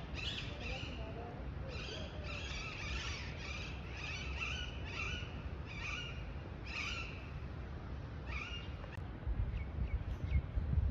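A bird calling over and over, a quick run of short, high chirps that stops after about seven seconds, then one more call, over a low outdoor rumble that grows louder near the end.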